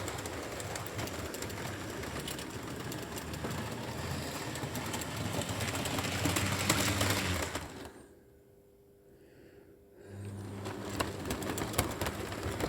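Model train locomotives running round the track: small electric motors whirring, with wheels clicking over rail joints. It grows louder about six seconds in, drops almost away for about two seconds, then picks up again.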